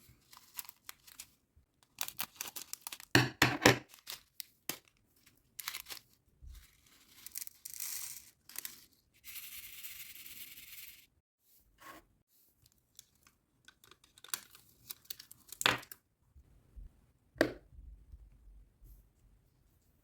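Plastic packaging and film of a diamond painting kit being torn, peeled and crinkled by hand in irregular bursts, with one longer continuous rip around the middle.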